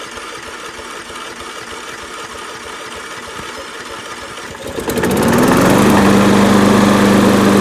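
Briggs & Stratton 6.75 hp single-cylinder mower engine being cranked by its electric starter, then catching about five seconds in, rising quickly in speed and settling into a steady, much louder run.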